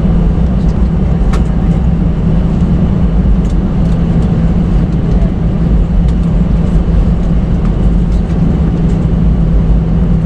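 Steady, loud rumble of a jet airliner's engines and airflow heard from inside the passenger cabin, with a low hum running through it and a few faint rattling ticks.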